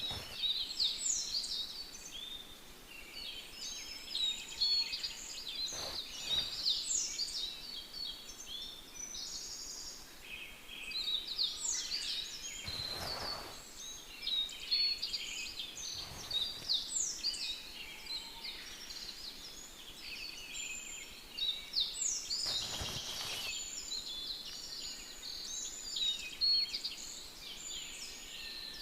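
Dense birdsong ambience: many birds chirping and warbling in quick overlapping phrases. A few soft rustles of yarn come through now and then.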